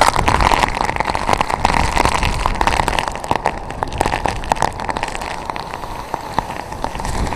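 Typhoon wind and rain: gusts buffet the microphone as a low rumble, and raindrops spatter on it in many quick ticks.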